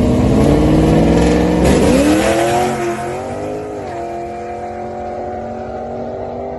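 Cammed Pontiac Firebird Trans Am drag car accelerating hard down the strip. The engine pitch climbs, drops at a gear change about two seconds in and climbs again. Just after three seconds the engine becomes quieter and steadier.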